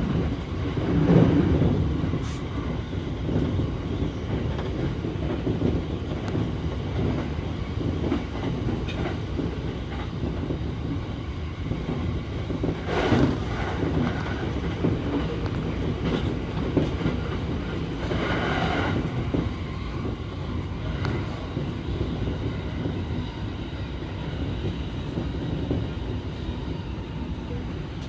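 Electric commuter train running on the rails, heard from inside the front car: a steady rumble of wheels with clickety-clack over the track, and a few brief louder swells about a second in, around thirteen seconds and around eighteen seconds.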